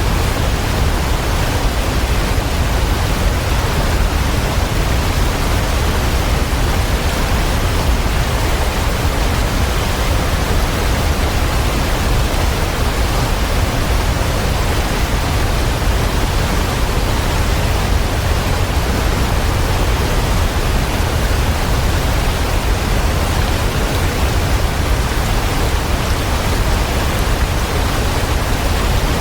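Waterfall: a steady, unbroken rush of falling water with a heavy low rumble.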